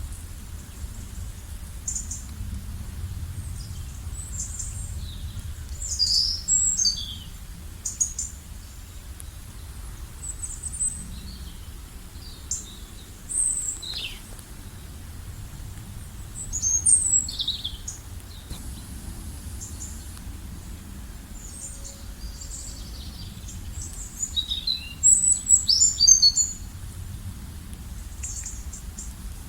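Songbirds chirping and singing in short, quick, high falling notes, with louder clusters of calls about a quarter, halfway and most of the way through, over a steady low rumble of outdoor background noise.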